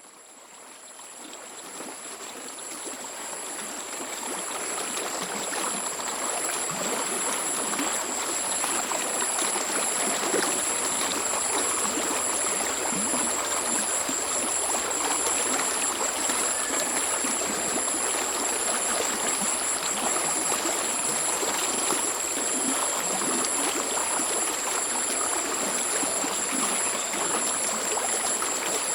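Mountain stream running and trickling, fading in from near silence over the first few seconds and then steady. Two thin, steady high-pitched tones run above the water throughout.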